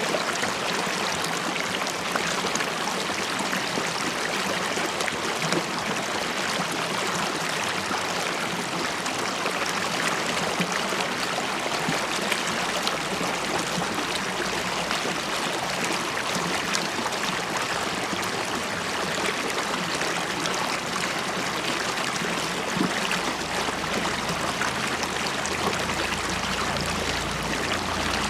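River water flowing and bubbling over stones in a steady, even rush with small gurgles, with a little more low rumble toward the end.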